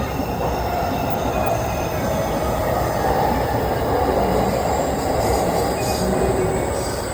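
Hayabusa Shinkansen train passing: a steady rushing run of train noise, slightly louder through the middle.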